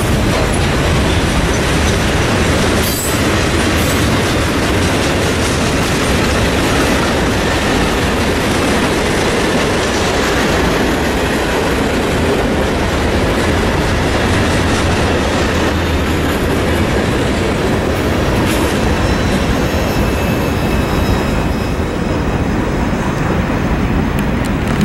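A freight train's cars rolling past: a steady, loud noise of steel wheels on rail, with a faint high wheel squeal in the second half.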